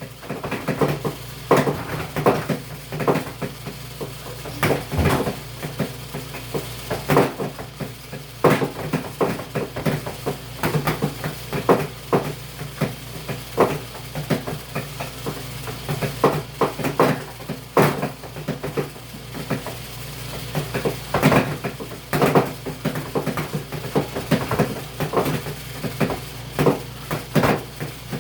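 Portable washing machine running, a steady low hum with irregular knocks and rattles from the tub and its load.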